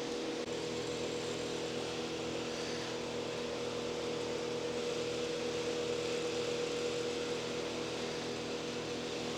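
Steady mechanical hum with a held tone over an even hiss.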